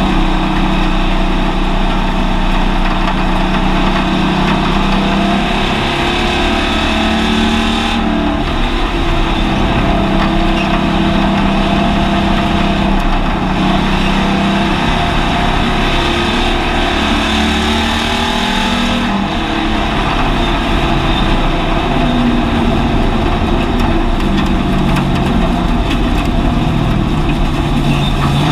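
Hobby stock car's engine, heard from inside the car, running under load with its pitch rising and falling as it laps the oval and easing off briefly about eight and nineteen seconds in, over steady road and wind noise.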